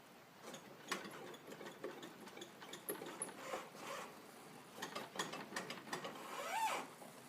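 Irregular clicking and knocking from a 2006 Kawasaki Brute Force ATV's wheel hub as the wheel is worked by hand, with a short squeak that rises and falls near the end: the play and noise of worn wheel bearings and bushings.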